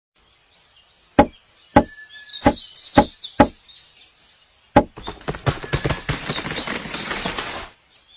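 Pileated woodpecker striking wood with heavy, spaced blows, about six single knocks over four seconds. These are followed by nearly three seconds of rapid, dense hammering mixed with a rasping, splintering noise that stops abruptly.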